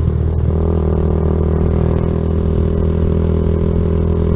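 Kawasaki Z125's single-cylinder engine running at a steady speed while the bike is ridden, with a brief change in the engine note right at the start.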